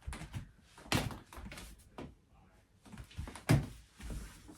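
A handbag being handled: two soft thumps, about a second in and a little after the middle, the second the louder, with light rustling between them.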